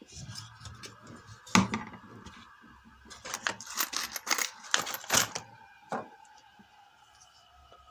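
Small metal objects clinking and rattling as they are handled: one sharp clink about a second and a half in, then a quick run of clinks from about three to five seconds in, and a last one near six seconds.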